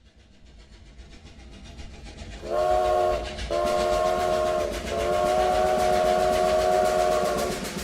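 Train sound effect: a train's rhythmic clatter growing from faint to loud, then three horn blasts, two short ones and a last one about three seconds long.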